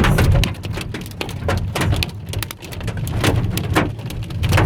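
Hailstones pelting a moving car's roof and body, heard from inside the cabin: irregular sharp hits, several a second, over the low rumble of the car on the road.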